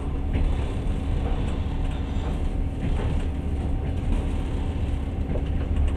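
Passenger train carriage running on the rails, heard from inside: a steady low rumble with a faint hum and a few scattered faint clicks.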